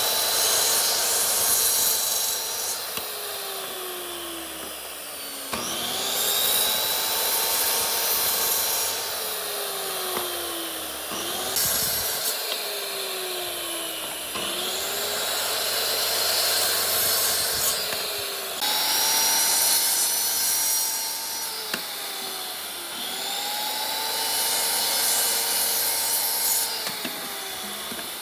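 Electric woodworking power tool cutting wood in repeated passes. Each pass lasts about four and a half seconds, and the motor's pitch sags under load during each one.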